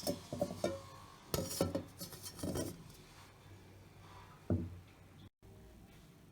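A quick run of clinks and knocks from kitchen utensils and dishes in the first few seconds, some with a short ring, then a single knock near the end.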